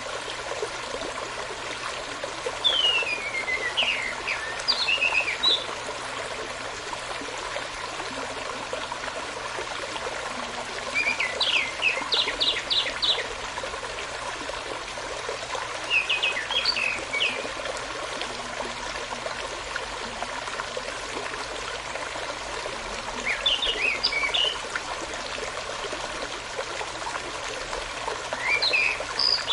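Running stream water with a steady trickle, and a songbird singing five short phrases of quick whistled and rising notes, each a second or two long and spaced several seconds apart.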